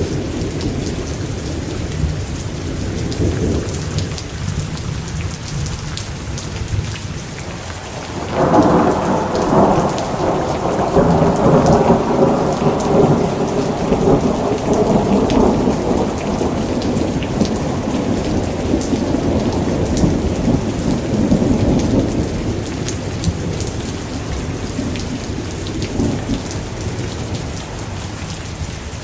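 Steady rain with thunder: a low rumble at first, then a louder thunderclap about eight seconds in that rolls on for more than ten seconds before fading back under the rain.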